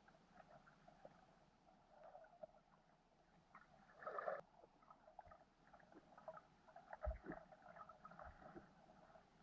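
Faint, muffled water noise with light crackling, a brief louder gurgle about four seconds in and a dull thump about seven seconds in.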